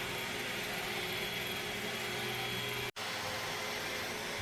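Roomba robot vacuum running steadily, a motor hum with a whir. The sound cuts out for an instant just under three seconds in.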